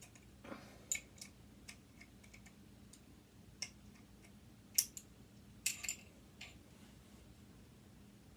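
Scattered small clicks and taps of an Allen wrench and hex screws being worked on a sewing machine motor during disassembly, the loudest about five seconds in and a quick cluster just before six seconds.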